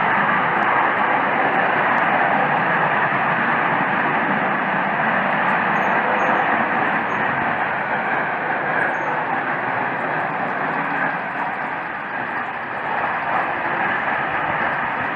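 A loud, steady, jet-like rushing roar from the sky with no aircraft in sight, the unexplained 'strange sky sound'. It eases off slightly in the second half.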